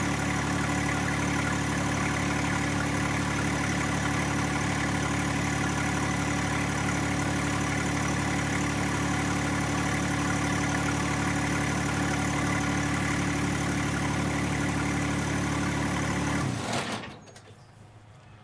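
John Deere 1025R compact tractor's three-cylinder diesel engine running steadily at a constant speed, then shut off near the end, its sound dying away within about half a second.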